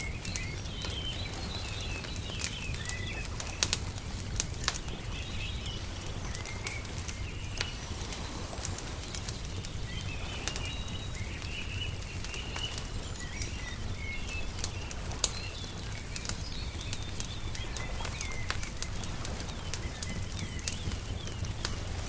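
Wood fire crackling, with sharp pops at irregular moments, over a steady low rumble, while small birds chirp on and off.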